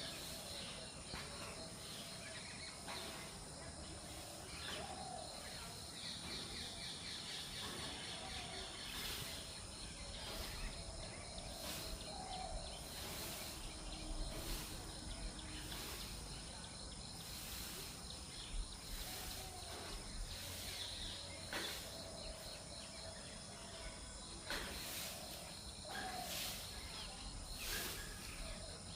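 Steady insect drone with a spotted dove's soft low cooing every few seconds, and occasional brief clicks.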